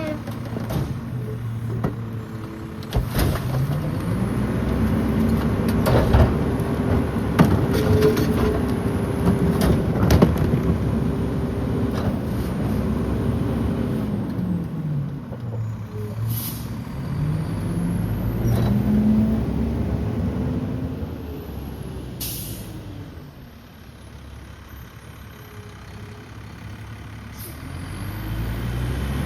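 Diesel engine of a Mack LEU rear-loader garbage truck revving up and settling back twice as the McNeilus packer blade cycles, with cracks and bangs of garbage being crushed in the first part. Two short air hisses come in the second half, and the engine drops low before rising again near the end.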